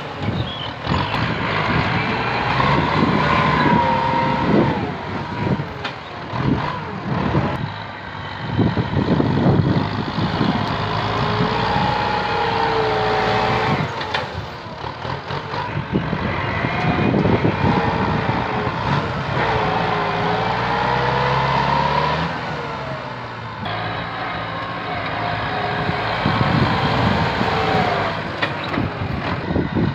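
Kubota M8540 tractor's diesel engine working hard under load, its pitch rising and falling repeatedly as it pushes through brush.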